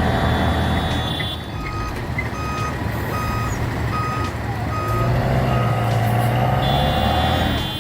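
A heavy vehicle's reversing alarm beeping steadily, about two beeps a second, starting about two seconds in, over a diesel engine running under load that revs up about five seconds in and settles near the end.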